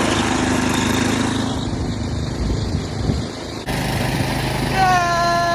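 An engine running steadily with a low hum, broken by an abrupt cut about two-thirds of the way through. Near the end a steady, flat pitched tone starts and holds.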